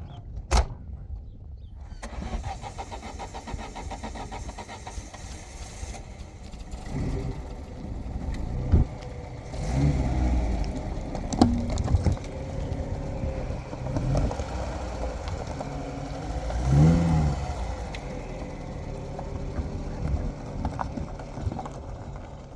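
A pickup truck's engine starts about two seconds in and runs, with irregular knocks and bumps over it.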